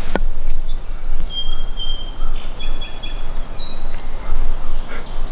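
A songbird singing a quick run of high whistled and chirped notes for a few seconds, over a loud, uneven low rumble of wind on the microphone.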